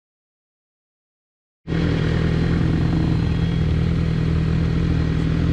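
Silence, then about a second and a half in a Suzuki GSX-R sport bike's engine is heard idling steadily.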